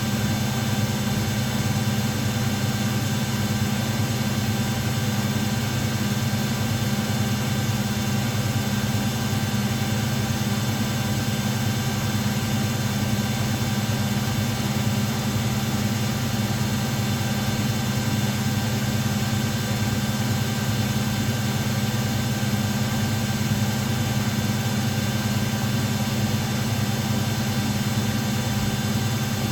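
Washing machines, a Miele Hydromatic W699 and an AEG Lavamat 76859A, running with a steady, unchanging hum and several constant whining tones above it.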